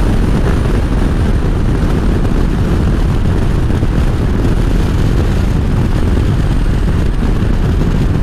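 Steady wind rush over the microphone with a Harley-Davidson V-twin running underneath at a constant cruising speed.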